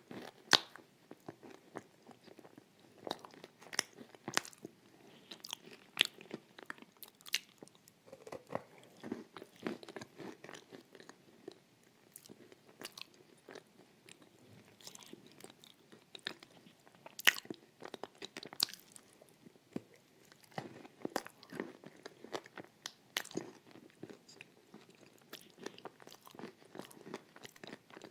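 Close-up biting and chewing of something crunchy: irregular sharp crunches and crackles over steady soft chewing, with the loudest bites about half a second in and about 17 seconds in.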